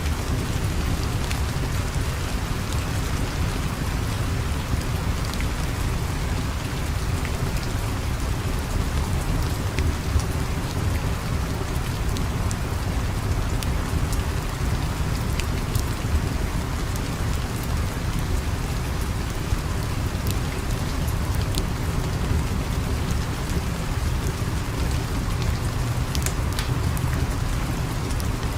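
Steady rain with a deep low rumble underneath, dotted with scattered sharp ticks and crackles.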